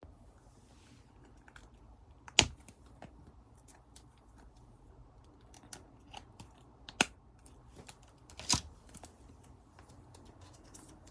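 Photocard packing materials being handled on a desk: plastic sleeves and cards rustling, with many small clicks and taps and three louder sharp knocks.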